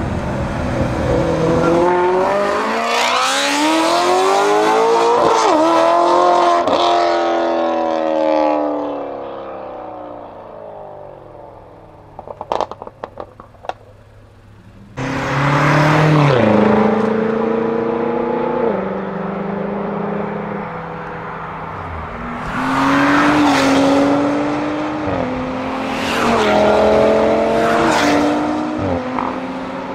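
Several performance cars accelerating hard past one after another, each engine rising in pitch and dropping back at gear changes. In a quieter stretch about halfway there is a short burst of sharp crackles.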